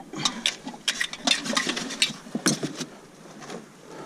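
Small metal clinks and scrapes as copper bits are pulled off a piece of scrap metal by hand, coming irregularly with a short flurry a little past halfway.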